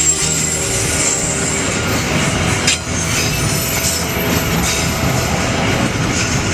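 Container freight train passing close by, its wagons' steel wheels rumbling over the rails with a thin steady squeal from the wheels on the curved track. One sharper clank comes just under three seconds in.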